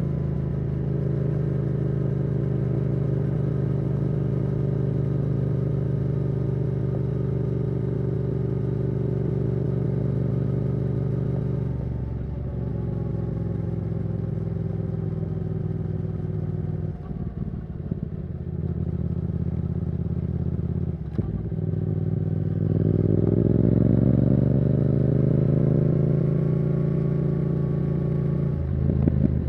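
Yamaha R7's CP2 parallel-twin engine through a Yoshimura R77 exhaust with the dB killer removed, riding at a steady cruise, then easing off about twelve seconds in. Around twenty-three seconds it accelerates in a rising pitch and then holds a steady speed again.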